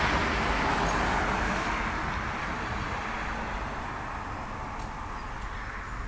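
Street traffic noise: an even rush of a vehicle on the road that fades gradually, as if moving away.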